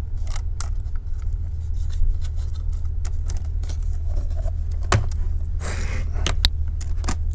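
Scattered light plastic clicks and a brief scrape as a laptop keyboard's ribbon cables are slid out of their opened connectors and the keyboard is lifted away. A steady low hum runs underneath.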